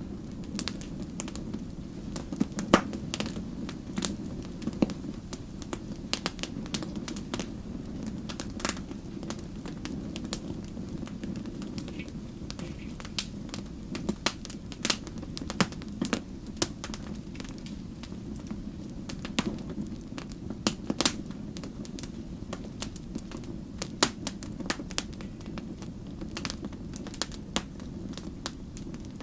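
Wood campfire burning, a steady low hiss of flame with sharp, irregular crackles and pops of burning wood, a few of them loud.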